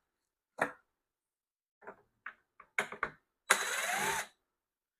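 Several light plastic clicks, then a short scraping slide under a second long near the end: a battery pack being unlatched and pulled out of a cordless leaf blower.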